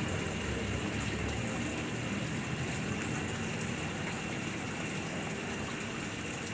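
Steady rushing noise like running water, with a thin, steady high-pitched tone over it.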